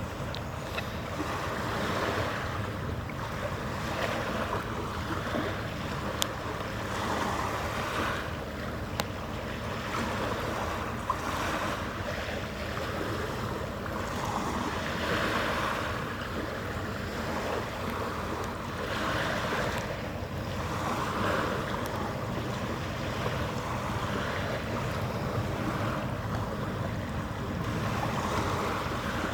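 Harbour water sloshing and lapping with wind, the noise swelling and easing irregularly, over a faint steady hum.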